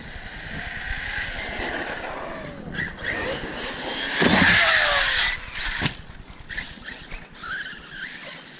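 Radio-controlled car driving and jumping on the track, its motor and tyres building to a loud pass about four seconds in, with a short falling whine as it goes by, then fading.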